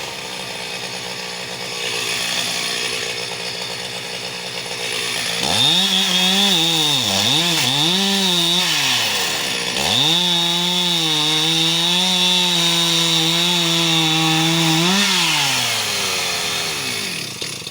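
Two-stroke chainsaw cutting firewood logs. It runs low for a few seconds, then is revved up and down three times in quick succession. It is held at a steady high pitch through a cut for about five seconds, then drops back.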